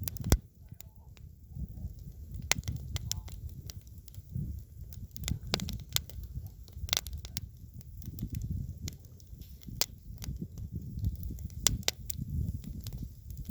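Wood campfire crackling, with irregular sharp pops over a low, uneven rumble.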